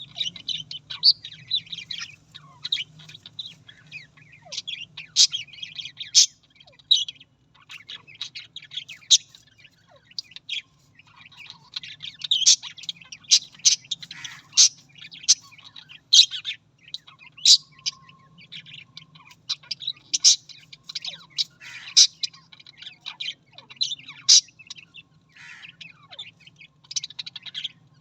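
Budgerigars chirping and chattering: a busy, irregular run of short, sharp chirps, over a faint steady low hum.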